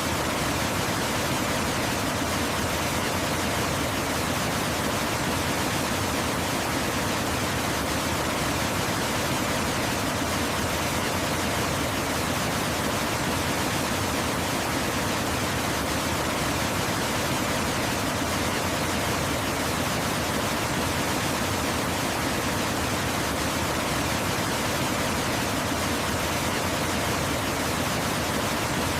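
Waterfall: a steady, unbroken rush of falling water, an even hiss across all pitches.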